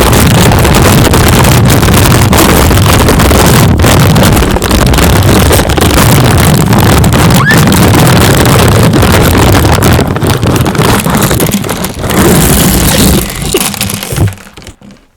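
Very loud, distorted noise driven to full volume and clipping, a heavy rumble with hiss on top. It holds steady for about fourteen seconds, then drops away sharply near the end.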